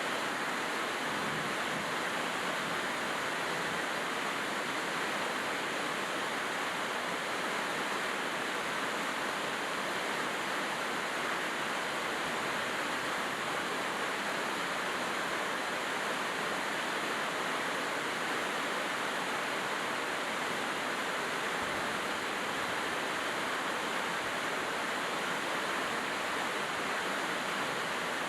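Steady heavy rain falling: a dense, even hiss of rain with no pauses or changes in level.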